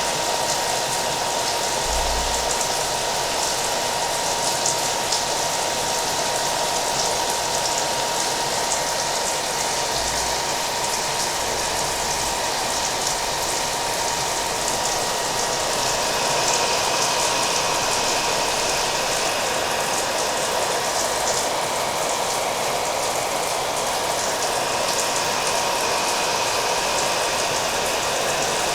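Hair dryer running steadily with a constant whine, mixed with the sound of rain falling.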